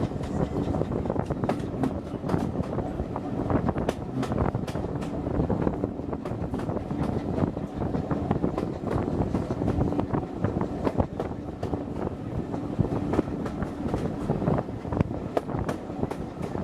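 Steam-hauled passenger train under way, heard from aboard: a steady rumble of the running gear with frequent sharp clicks from the wheels over the rails, and wind on the microphone.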